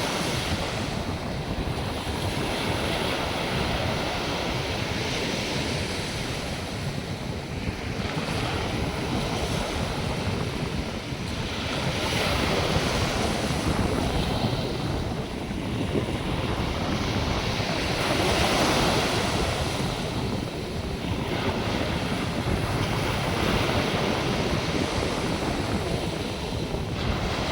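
North Sea surf washing onto the beach, waves breaking and rushing in swells every few seconds, with wind buffeting the microphone.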